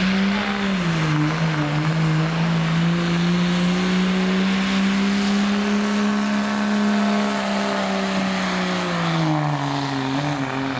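Diesel pickup engine on the pull: its note climbs in the first second, holds at high revs for about seven seconds, then falls away near the end as the throttle comes off.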